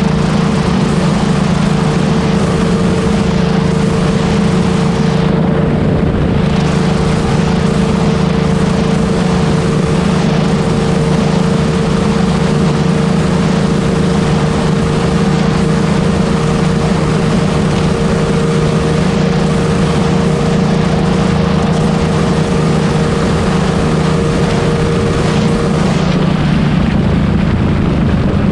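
Honda Wave 125 motorcycle engine running at a steady cruise with heavy wind rushing over the microphone. The drone holds an even pitch and shifts slightly near the end.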